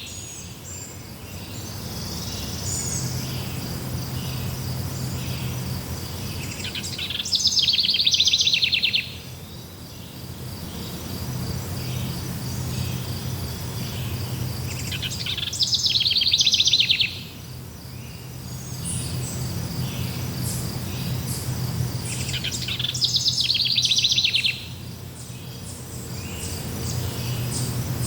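Forest ambience of birds and insects: a loud, rapid trill sounds three times, about eight seconds apart, over a steady high insect trill and scattered short chirps.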